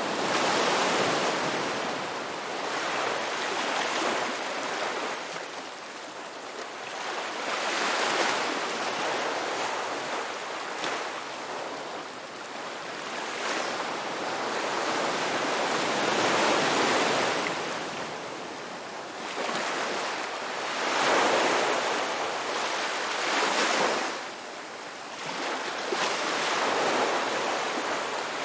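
Sea waves breaking on a shore, a hissing wash of surf that swells and falls away every three or four seconds.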